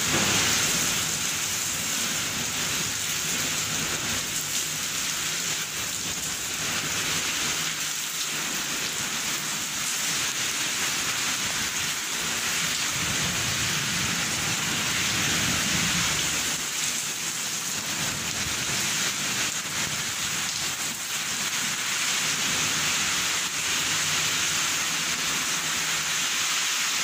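Heavy rain pouring down in strong, gusting storm wind: a steady hiss, with a deeper rumble swelling about halfway through.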